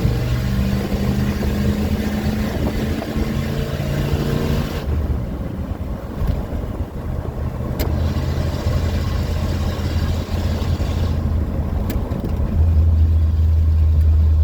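Ford F-150 engine and exhaust under hard acceleration, revving high for about five seconds, then dropping back to a lower note, and settling into a louder steady low drone near the end.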